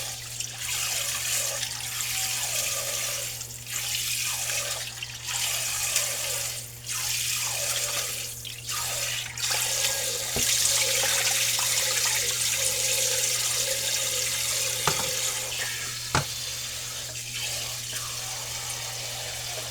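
Water running from a tap into a sink while dishes are washed by hand, the flow changing and growing steadier from about halfway. A few sharp knocks sound in the second half.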